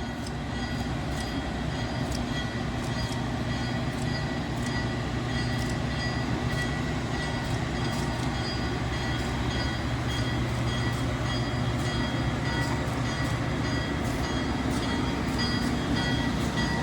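Diesel locomotive running as it slowly moves a string of railroad cars: a steady low engine rumble that grows slightly louder, with a few faint clicks.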